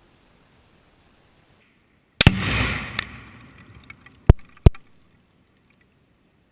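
A binary exploding-target charge detonating: a sudden loud blast about two seconds in, its rumble dying away over about a second. About two seconds later come two more sharp cracks, just under half a second apart.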